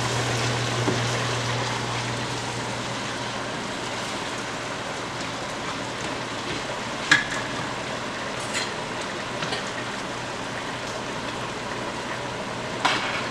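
Eggplant frying in oil in a stainless steel sauté pan, a steady sizzle as it is stirred with a wooden spoon. A few sharp knocks of utensils against the pots, the loudest about seven seconds in and another near the end.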